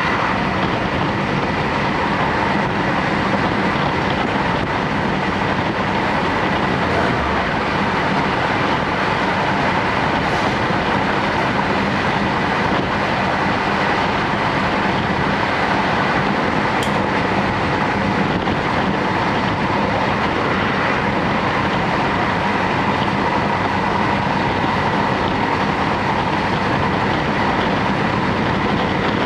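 Interior running noise of a JR Hokkaido Series 711 electric train under way, heard from inside the carriage: a steady rumble of wheels on rail with a constant whine over it.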